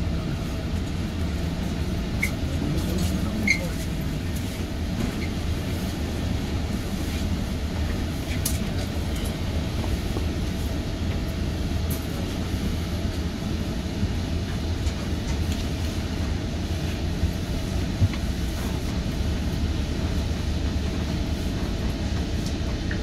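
GO Transit commuter train running, heard from inside the passenger coach: a steady low rumble with a few brief faint clicks and squeaks.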